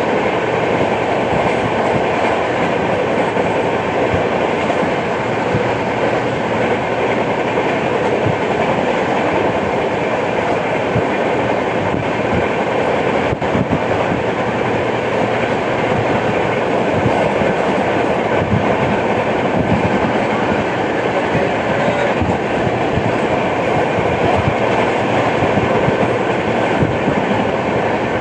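Passenger train of the 12810 Howrah–CSMT Mail running at speed, its wheels clattering steadily over the track with repeated knocks, the sound of a flat wheel.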